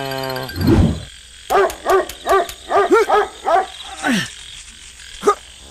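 Animal calls: a held call at the start, then a quick run of about eight short barks, with a low thump just under a second in and a sharp click near the end.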